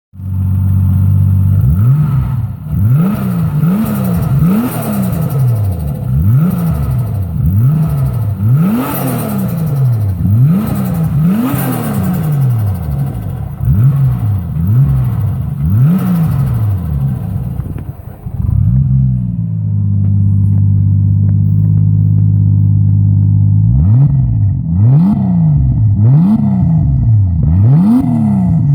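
Heavily tuned Toyota Supra 7M-GTE turbocharged inline-six being blipped over and over in quick free revs, each rev rising and dropping back within about a second. About two-thirds of the way through it settles to a steady idle for several seconds, then the revving starts again.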